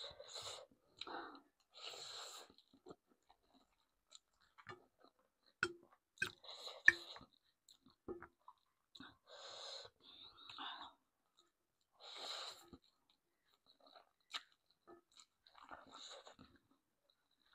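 A person eating close to the microphone: chewing with wet mouth clicks and lip smacks, broken by several breathy, hissing sounds about half a second each.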